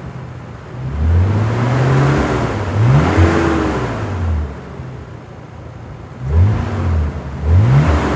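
Nissan 300ZX's 3.0-litre VG30DE V6 being blipped, the revs rising and falling sharply about four times with the engine settling back toward idle between blips.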